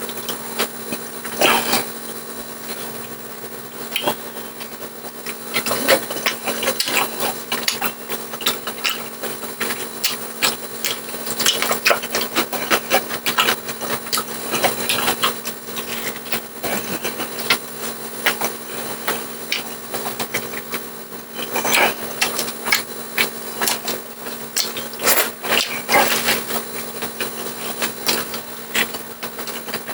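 Eating sounds: utensils repeatedly clicking and scraping against a plate or bowl, with irregular short knocks, over a steady hum.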